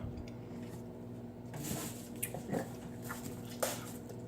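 A man's short, hissing breaths and faint whimpers, several in a row, as he suffers the burn of Carolina Reaper peppers.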